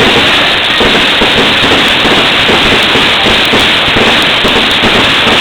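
Fireworks going off in a dense, continuous barrage of crackles and pops, loud and without a break.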